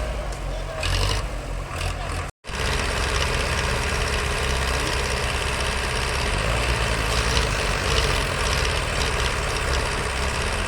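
Heavy diesel farm machinery (tractors or a backhoe loader) running steadily under a low engine rumble, cutting out for an instant about two and a half seconds in.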